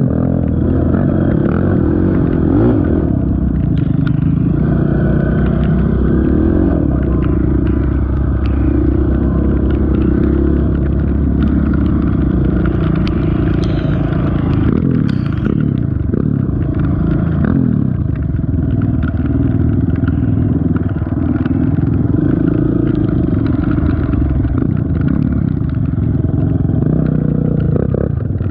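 Honda TRX450 ATV's single-cylinder four-stroke engine running on a trail ride, its speed rising and falling with the throttle, with occasional knocks and clatter from the quad over rough ground.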